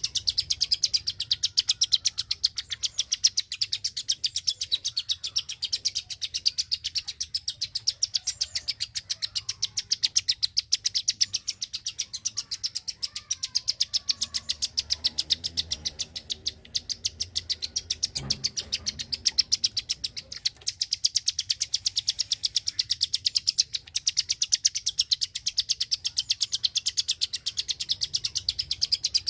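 Klik-klik songbird calling a rapid, unbroken series of sharp, high clicking notes, several a second.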